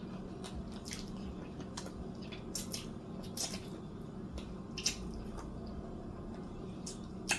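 Close-up wet mouth sounds of someone eating pork chop off the bone: irregular short smacks and sucking clicks, about a dozen, over a low steady hum.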